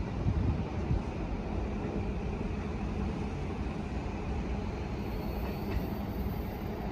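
Electric train at a station platform: a steady low rumble with an even hiss, without marked changes.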